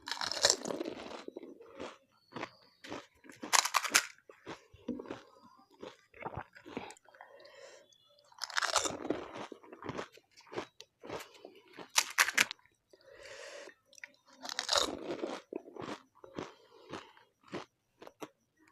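Panipuri being eaten close to the microphone: crisp puri shells filled with spiced water are bitten with a loud crunch about every three to four seconds, about five times, with wet chewing in between.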